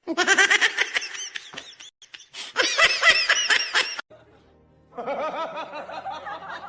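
High-pitched giggling laughter in quick, rapid pulses, in two stretches over the first four seconds; after a short pause, music comes in.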